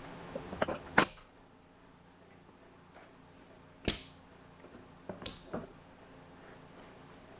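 A few sharp clacks and short hissing bursts, each cut off quickly, with quiet between them: the loudest is a crack about a second in.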